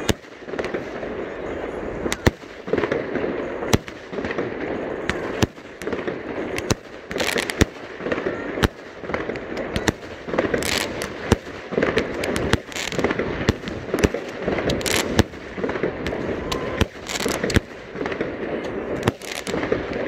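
Fireworks going off: many sharp bangs at irregular intervals, sometimes several close together, some followed by a brief hissing crackle, over a steady background din.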